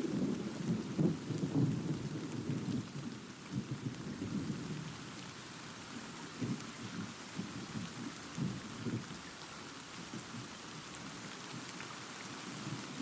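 Thunder rumbling and crackling over steady rain. The rumble is loudest in the first couple of seconds, then dies down to scattered low cracks while the rain hiss carries on.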